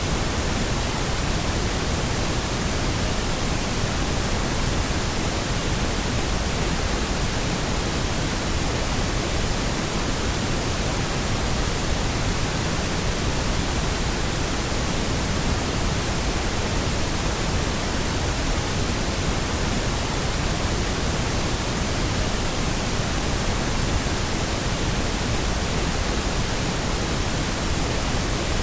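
Continuous electronically generated pink noise: a steady, even hiss spread from low to high pitches, with no change.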